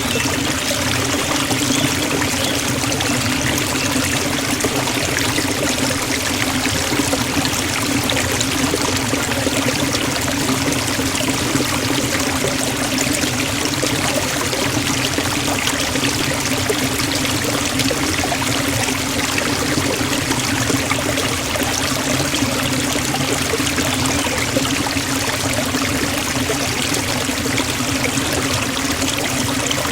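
Waterfall: water falling and rushing steadily without a break.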